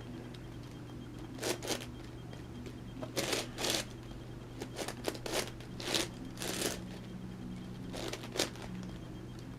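Layers of a large plastic 11x11x11 Rubik's cube being turned by hand: a dozen or so short, dry clicking rasps in irregular groups, with pauses between them.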